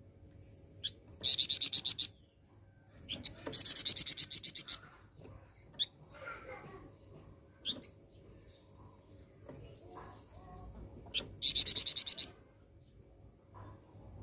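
Flamboyan songbird singing: three loud, high, rapid trills of about ten quick notes each, the second about three and a half seconds in and the last near the end, with short single chirps between them.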